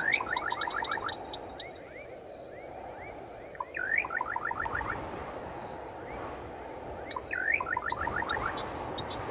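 Night nature soundscape: a call that swoops up and down and is followed by a quick run of short notes, repeated three times about every three to four seconds, with quick bursts of high ticking. Underneath is a steady high insect drone, typical of crickets, and a low rushing noise.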